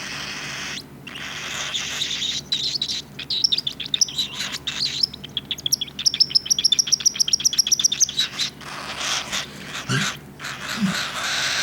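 Cockatiel chick begging to be fed: raspy hissing calls that turn into a fast run of short, high chirps, densest in the middle.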